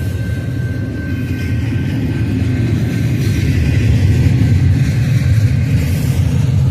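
Freight cars of a Union Pacific intermodal train rolling past, the wheels on the rail making a loud, steady rumble that grows a little louder from about three seconds in.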